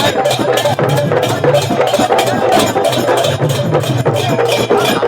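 Radha-Krishna sankirtan (devotional kirtan) music, with an even percussion beat of about four to five strokes a second over sustained melody.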